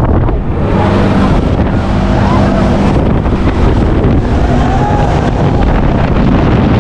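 Heavy wind buffeting a phone microphone as the Mondial Turbine thrill ride swings and spins, with a steady low hum underneath.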